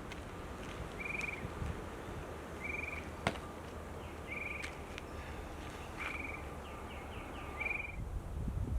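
Outdoor natural ambience: a short, buzzy chirping trill repeats about every second and a half, with fainter chirps between, over a low background hum. A single sharp click comes about three seconds in.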